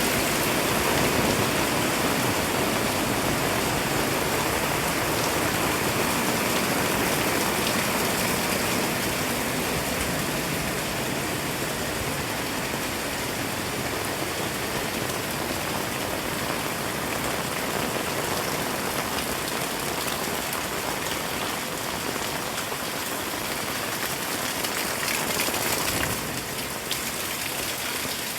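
Heavy rain falling steadily in a dense, even hiss of drops, easing a little about three-quarters of the way through.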